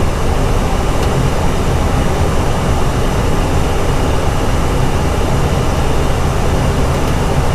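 Steady rushing noise of airflow and engines heard inside an Airbus A320 cockpit in descent.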